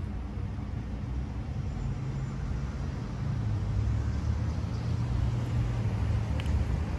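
Low rumble of a vehicle engine with a steady hum, growing louder about three seconds in.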